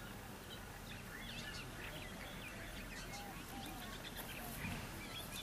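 Birds chirping and calling, many short scattered calls over a low steady rumble.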